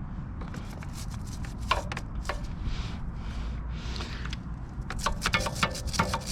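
Brush scrubbing grime off a motorcycle chain and sprocket: scattered scraping strokes and clicks, turning into quick, dense scraping near the end.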